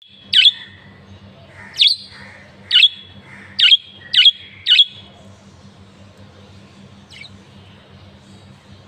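A bird giving short, sharp chirping calls: six loud calls in the first five seconds, then one faint call about seven seconds in.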